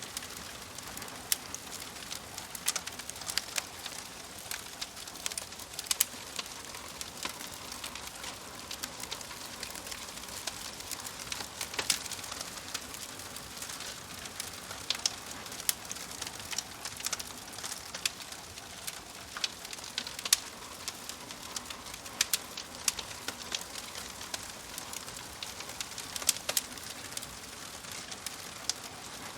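Wood fire crackling, with sharp snaps and pops scattered irregularly over a steady hiss of burning.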